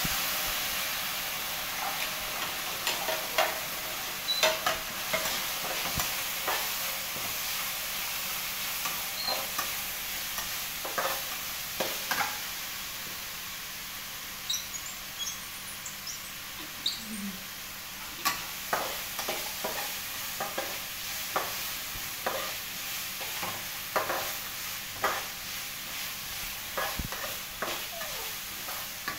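Food sizzling as it fries in a wok on a gas stove, a steady hiss with scattered clicks and taps throughout.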